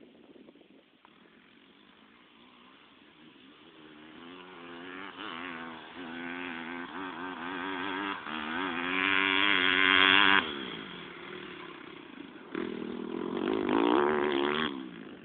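Motocross bike engines revving and changing pitch as they ride the track. One grows steadily louder to a close, loud pass and cuts off suddenly about ten seconds in. Another comes in loud a couple of seconds later.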